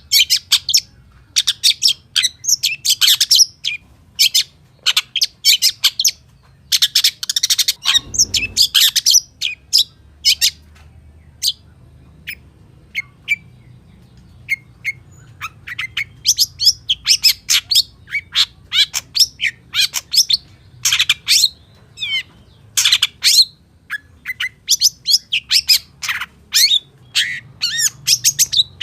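Long-tailed shrike (pentet) singing a fast, varied stream of sharp chirps and whistles, full of mimicked calls of other birds. The song thins out to scattered notes for a few seconds near the middle, and a single dull thump is heard about eight seconds in.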